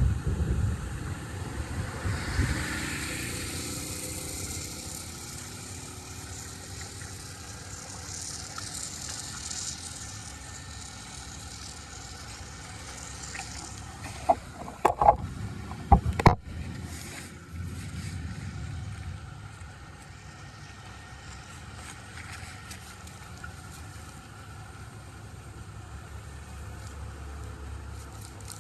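Water rushing and draining through a cleared drain or culvert as a steady rumbling wash. About halfway through there is a quick run of four or five sharp knocks.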